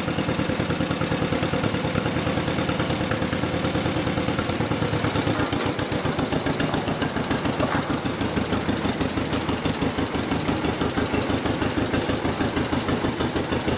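1955 John Deere 40 S two-cylinder engine running with a steady, even putt of firing pulses.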